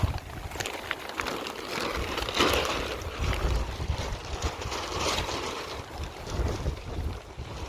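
Wind gusting over the microphone, a rumbling buffet that rises and falls under a steady rushing hiss, with a few faint clicks.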